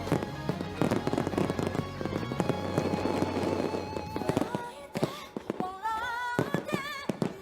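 Fireworks bursting and crackling in a dense finale barrage over music; about five seconds in the crackling thins and sustained sung notes with vibrato come to the front.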